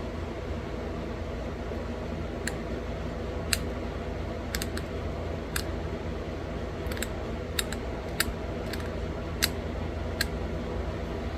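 About a dozen sharp, irregularly spaced clicks as small flakes pop off a thin stone flake being pressure-flaked into a bird point. The clicks begin about two seconds in, over a steady low hum.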